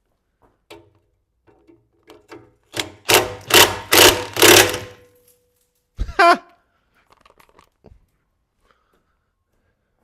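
A power tool run in four or five short, loud bursts on the bolts of the exhaust joint, followed about six seconds in by a single sharp metallic knock.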